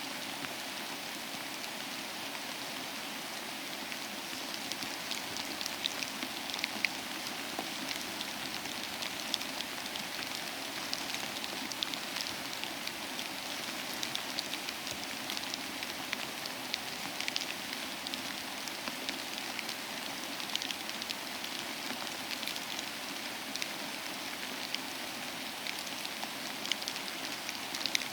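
Steady rain: an even hiss with many separate drops ticking sharply, the drops growing more frequent a few seconds in.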